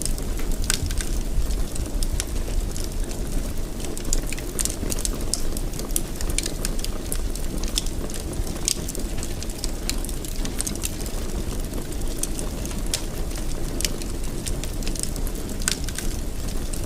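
Fireplace fire crackling, with frequent small sharp pops, a few louder ones, over a steady low rumble of flame.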